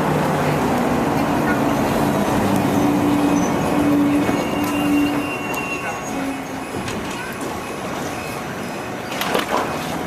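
A tram running past amid street traffic: a steady motor hum that fades about halfway through, then faint high wheel squeals and a few clacks near the end.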